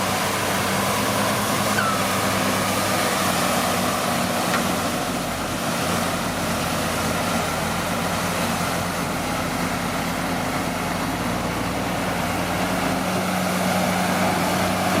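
Komatsu D41P bulldozer's diesel engine running steadily under load, with a short squeak about two seconds in.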